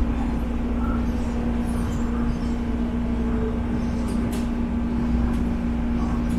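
Interior of a moving MTR East Rail Line electric train: a steady low rumble of the running train with a steady two-tone hum over it and a few faint ticks.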